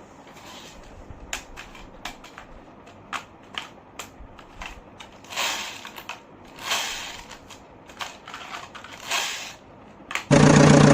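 Plastic toy vehicles being handled, with irregular clicks, knocks and short scraping sounds. About ten seconds in, a loud, steady engine sound starts abruptly.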